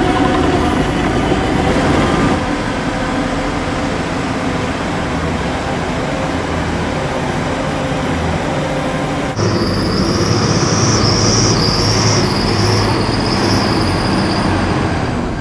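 Bulldozer working, its diesel engine running steadily. About nine seconds in the sound changes abruptly and a high, wavering squeal, like steel crawler tracks, joins the engine.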